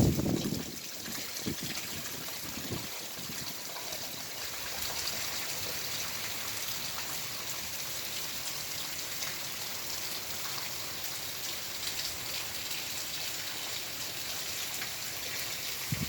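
Heavy rain falling steadily, with water running and trickling. A brief low sound comes in the first second.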